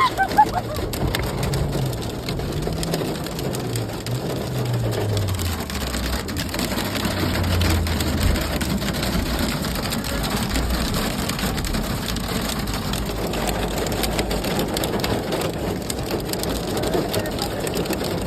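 Heavy rain pelting down steadily, a dense crackling patter of drops on hard surfaces. A low hum wavers underneath and fades away in the first half.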